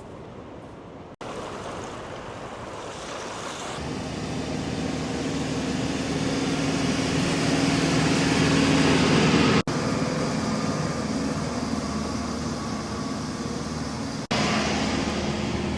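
Wind and surf noise with a steady motor hum that sets in about four seconds in and slowly grows louder; the sound breaks off abruptly three times, at cuts between clips.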